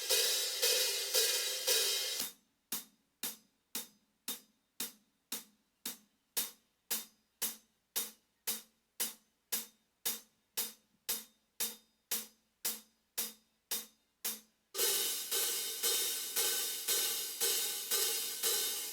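Zildjian hi-hat cymbals played in a steady beat of about two strokes a second. At first each stroke rings into a continuous wash. After about two seconds the strokes turn short and clipped, dying away between hits. Near the end it switches back to the ringing wash.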